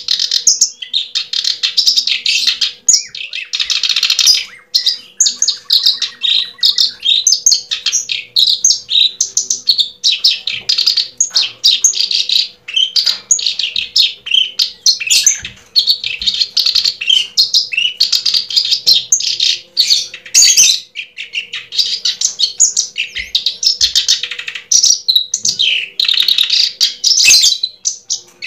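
Birds chirping busily, many quick, overlapping high chirps with hardly a pause.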